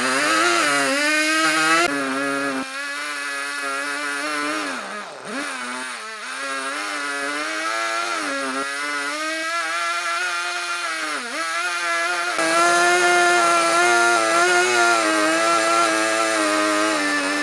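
Small two-stroke chainsaw running at high speed while cutting wood, its engine pitch repeatedly sagging as the chain bogs into the cut and rising again as it frees up, with a few abrupt jumps in the sound.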